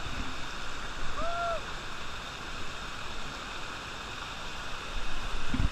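Steady rush of falling or running water. A short, arched hooting call sounds about a second in, and a few low thumps come near the end.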